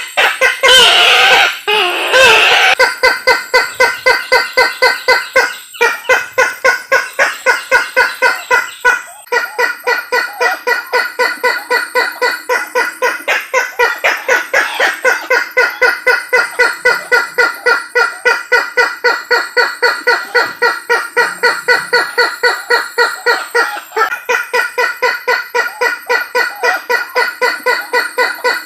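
Isabelline bush-hen (kareo Sulawesi) calling, a bird-lure recording. It opens with a loud cackling burst, then settles into a long run of rapid, evenly repeated notes, about three a second.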